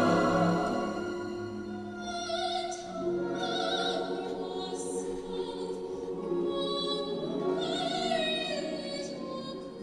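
Choir singing held notes, with vibrato wavering in the high voices and the phrases changing every second or two.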